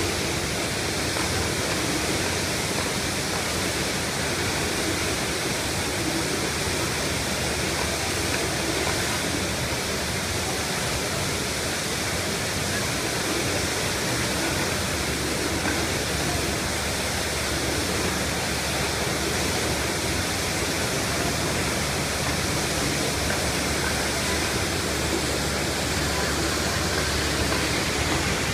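Water gushing from a fire hydrant sheared off by a truck, shooting up as a geyser: a steady, even rushing noise.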